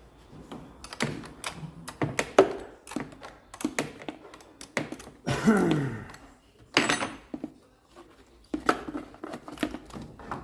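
A run of sharp clicks and knocks from handling things, with a short falling squeak about five and a half seconds in and a louder knock just before seven seconds.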